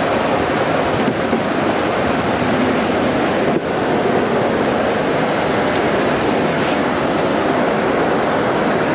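Steady, loud noise of a car on the move, with engine, tyre and wind noise running evenly throughout, and no siren or voices.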